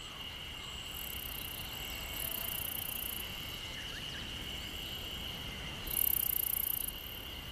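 Insects chirping in a forest: a steady high drone with bursts of very shrill trilling, the loudest about six seconds in.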